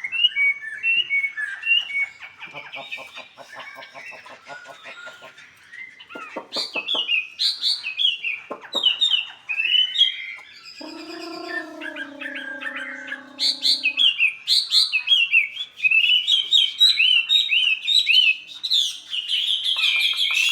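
A wambi, a small songbird, calling fast and continuously with sharp, quick-fire chirps and rattling trills, the agitated, fired-up calling that bird keepers call 'galak konslet'. A low, steady droning tone runs for about three seconds midway.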